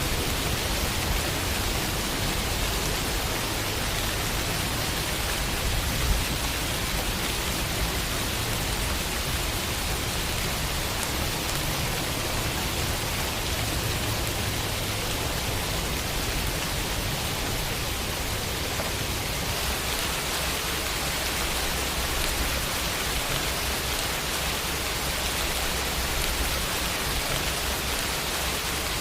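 Steady rain falling on a window pane, an even hiss with one sharper drop about six seconds in.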